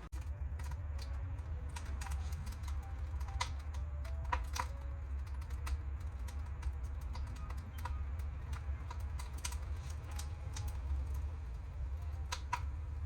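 Split firewood burning hard inside a cast-iron wood stove, crackling with irregular sharp pops and snaps over a steady low rumble.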